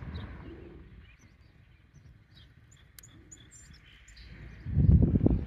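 Small birds chirping and tweeting in short, scattered calls. A loud low rumble comes in near the end.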